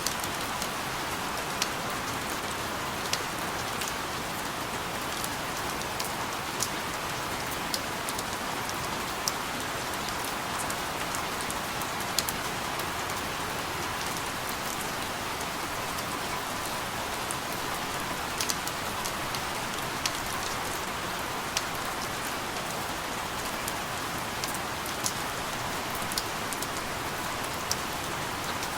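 Steady rain falling, a dense even hiss with scattered sharper drop taps every second or so.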